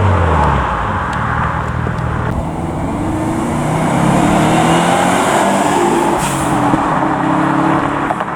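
A car engine running hard as a car pulls away, its pitch climbing and dropping back several times over steady road and exhaust noise.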